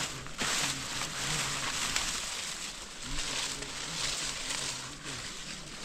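Heavy rain falling: a steady hiss that swells and eases.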